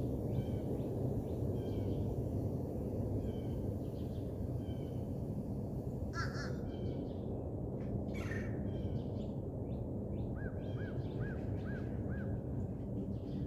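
A steady low hum of unknown origin, with level tones around 100 and 200 Hz, running without a break. Birds call over it, ending with a run of five evenly spaced calls near the end.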